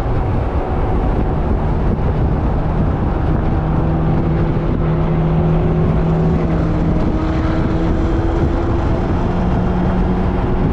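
Car engine running hard at steady revs on a race track, under a thick rush of road and wind noise. The engine's note steps down in pitch about two-thirds of the way through.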